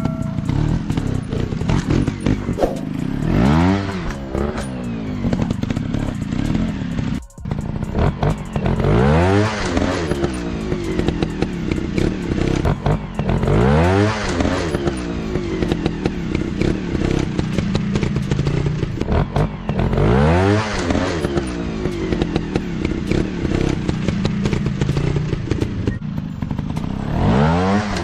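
Dirt bike engines running continuously and revving up and back down five times, roughly every five seconds, with clattering and scraping mixed in.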